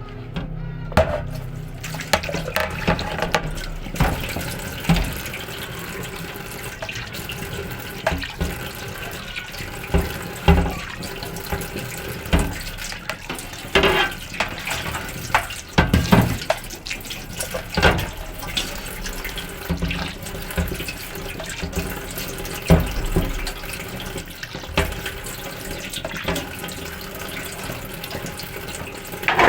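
Tap water running into a sink while a glass fridge shelf is washed by hand, with frequent short knocks and clatters.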